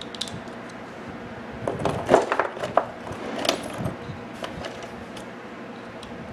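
Small metal parts from scrapped microwave cooling-fan motors clinking and knocking together as they are handled, a flurry of light metallic knocks between about two and four seconds in.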